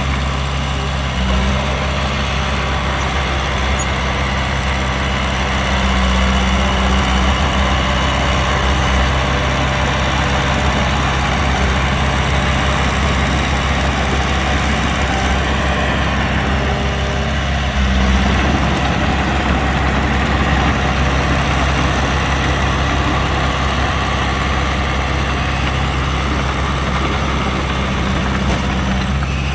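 Heavy diesel engine of earthmoving machinery running steadily, swelling briefly twice.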